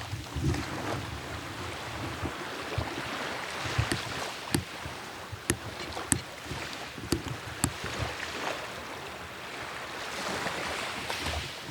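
Sea surf washing onto the shore, swelling and easing. Scattered sharp clicks and knocks are heard over it about halfway through.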